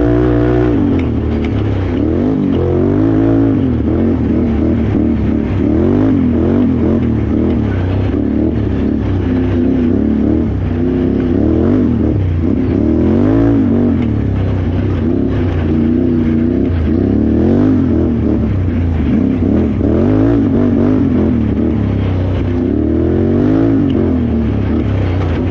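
Can-Am Renegade XXC 1000R ATV's V-twin engine being revved hard and let off again and again, its pitch rising and falling every second or two as the throttle is worked through an off-road race course.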